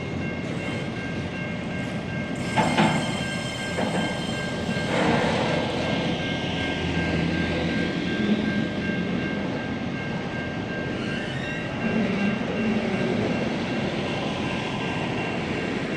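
Long freight train of steel and refrigerated wagons rolling slowly past close by: a steady rumble of wheels on rail with a few knocks, over steady high-pitched tones.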